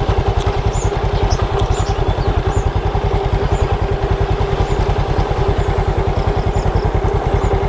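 Motorcycle engine running steadily with an even pulse and no revving, while swallows give many short, high chirps over it.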